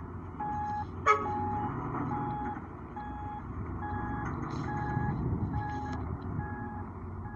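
Reversing alarm on a heavy vehicle beeping at one steady pitch about every 0.8 seconds, over the low rumble of a diesel engine running. A single sharp knock about a second in.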